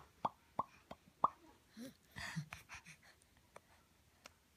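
Mouth pops: a quick series of sharp popping clicks, each dropping quickly in pitch. A short breathy sound follows about two seconds in, then a few softer clicks near the end.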